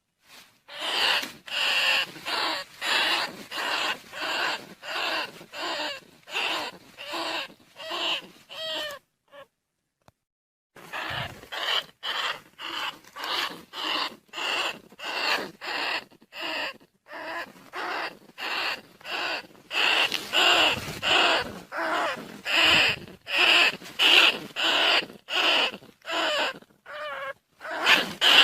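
Field rats squeaking in a fast, even series of short calls, about two a second, with a brief pause about a third of the way through: a decoy recording used to call rice-field rats and bandicoot rats.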